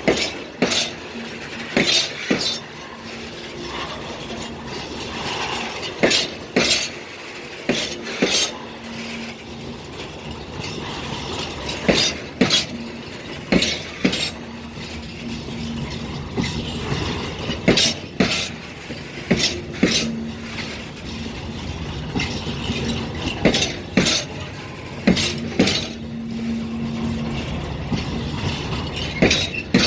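Train rolling slowly past, its wheels knocking over rail joints in pairs of clacks every second or two, over a steady running noise and an on-and-off low hum.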